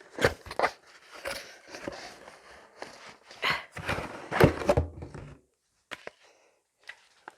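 Handling noise from a plastic filament spool and its wrapping: rustling, clicks and knocks, the loudest about four and a half seconds in, then only a few scattered clicks.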